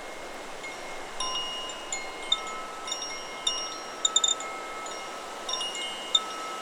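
Chakra Chimes 'Solar Plexus' wind chime ringing in the wind over steady wind noise. After a first second of mostly wind, its tubes are struck irregularly and their long tones overlap. A quick run of strikes comes about four seconds in.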